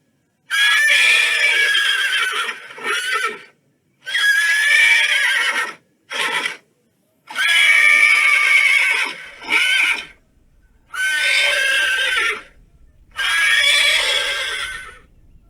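A horse whinnying, about six separate quavering neighs of one to three seconds each, with short silent gaps between them.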